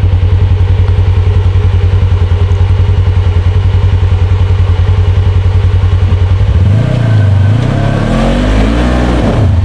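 Side-by-side UTV engine idling loudly with a rapid, even pulse. About seven seconds in, an engine revs up and back down as the machine is given throttle on a trail obstacle.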